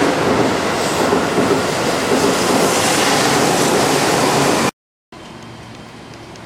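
Keihan 6000 series electric train running on the track, a loud steady rumble of wheels and running gear. It cuts off abruptly about five seconds in; after a brief gap a much quieter train running sound follows, with faint light ticks.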